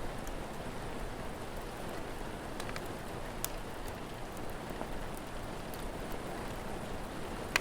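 Steady rain falling, with a few sharp crackles and pops from a wood fire, the loudest one right at the end.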